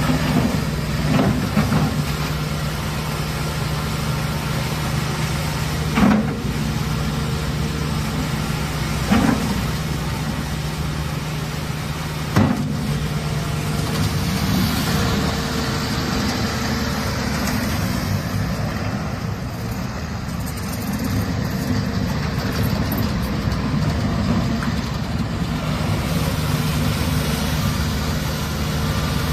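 74 hp JCB diesel engine of a JCB 225T tracked skid steer loader running steadily, with three sharp knocks or clunks in the first half.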